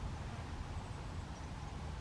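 Quiet outdoor ambience: a steady low rumble with a faint even hiss above it, and no distinct events.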